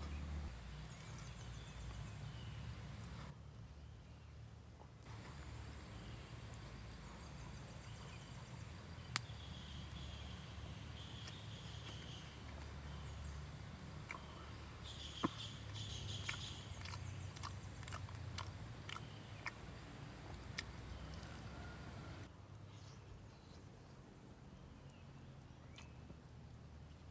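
Insects keep up a steady high-pitched drone that cuts out abruptly twice. Scattered sharp clicks and crackles come through the middle, over a low background rumble.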